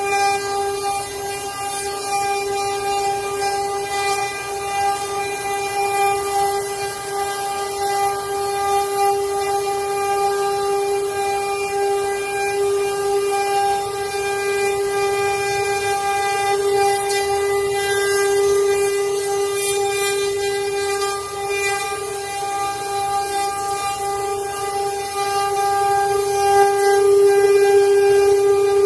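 CNC wood-carving router's spindle motor running with a steady high-pitched whine, over a light hiss of cutting, growing a little louder near the end.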